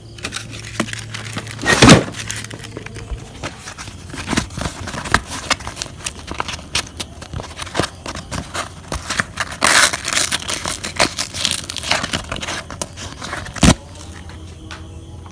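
Irregular crinkling and rustling with scattered small knocks as things are handled, with two louder thumps, one about two seconds in and one near the end.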